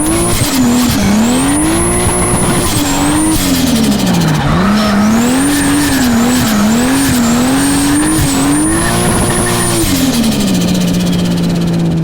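Toyota JZS161's 2JZ straight-six engine held at high revs, its note rising and dipping again and again as the car is drifted, with tyre squeal. About ten seconds in the revs drop and settle to a steady lower note.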